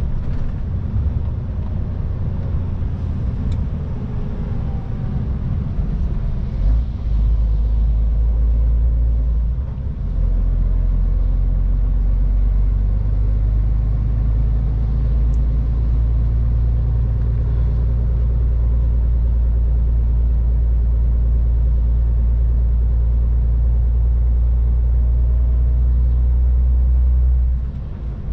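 MAN TGX 18.510 truck's six-cylinder diesel running under way, a steady low rumble with road noise, heard from the cab. The level steps up about seven seconds in and dips briefly twice, around ten seconds in and near the end.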